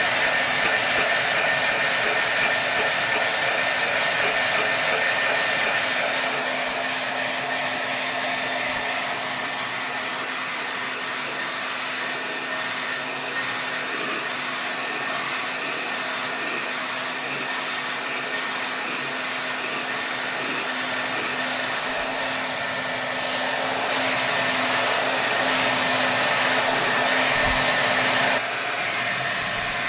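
Hair dryer blowing at full air with a steady rushing sound and a constant motor hum. It eases a little about six seconds in, swells again late, and drops suddenly near the end.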